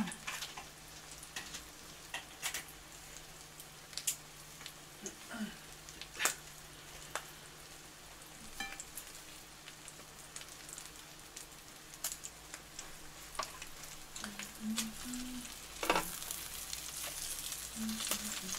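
French toast (egg-soaked bread) frying in salted butter in a pan: a steady sizzle with scattered sharp pops and crackles, getting louder near the end.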